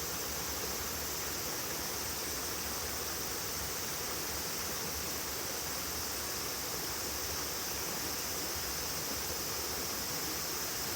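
A bonfire burning with a steady, even hiss, under a constant high-pitched insect chorus.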